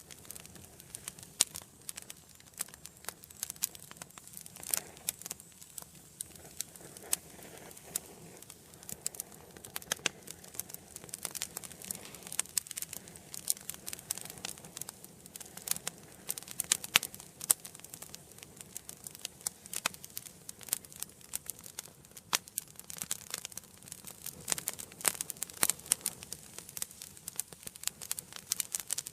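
Wood fire burning in a fireplace, crackling and popping with many sharp snaps at irregular times over a soft steady hiss.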